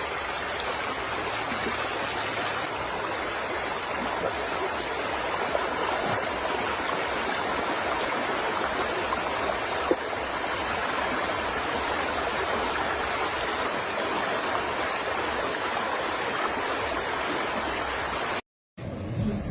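Floodwater rushing in a high, fast current: a steady, even rush of water that stops abruptly about a second before the end.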